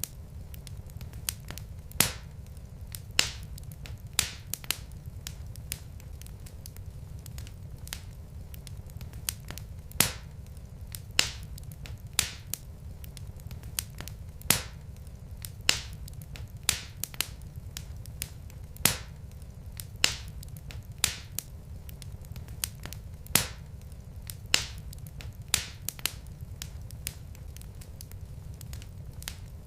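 Wood fire in a fireplace crackling: irregular sharp pops and snaps, one or two a second with a louder one every couple of seconds, over a steady low rumble of burning logs.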